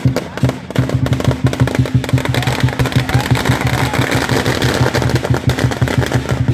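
Strings of firecrackers going off in a dense, rapid crackle of bangs, with a drum beating quickly underneath.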